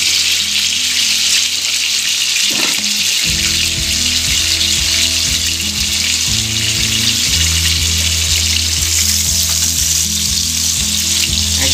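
Duck fillets searing in hot butter in a frying pan, a loud, steady sizzle.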